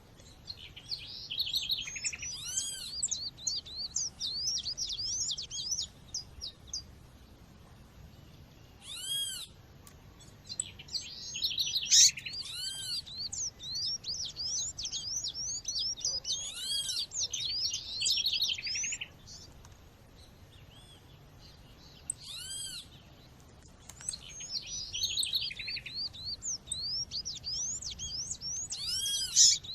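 Female Sporophila seedeater calls (the coleiro or papa-capim female call) with other birds. Bursts of rapid, high chirps lasting several seconds alternate with short pauses. A separate arched, whistled call repeats about six times.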